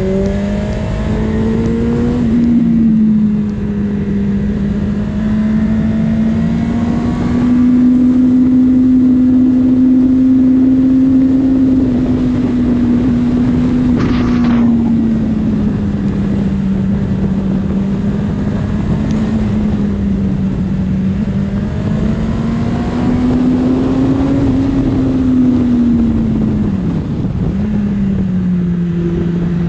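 Honda CBR600RR's inline-four engine heard on board at speed, its note rising and falling with the throttle, over steady wind rush. The pitch drops sharply and picks up again near the end, as at a gear change.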